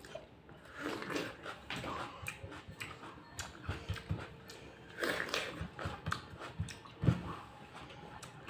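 A woman biting and chewing raw tomato: an irregular series of short, crunchy mouth sounds. There is a sharper knock about seven seconds in.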